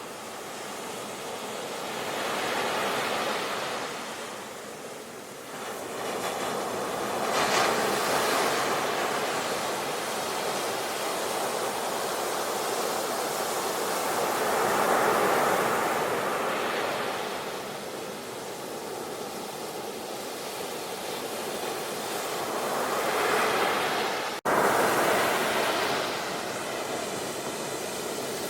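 Sea waves breaking and washing up the shore, the surf swelling and falling away every several seconds. About three-quarters of the way through the sound drops out for an instant and comes back at once with a loud rush.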